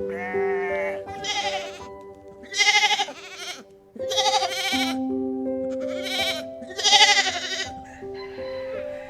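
A string of bleats, short quavering animal calls every second or so, over soft instrumental music with slow held notes.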